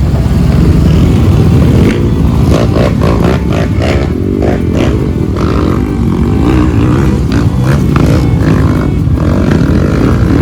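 Off-road motorcycle engine running under load while riding over rough ground, with knocks and rattles through the middle.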